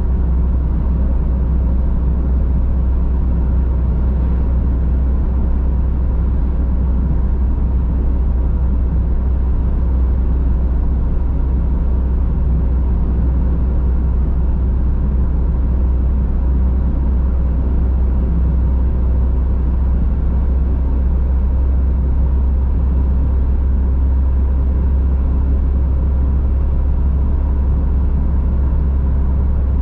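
A car driving steadily on a country road, heard from inside the cabin: a constant low drone of engine and tyres on the road, with no gear changes or other events.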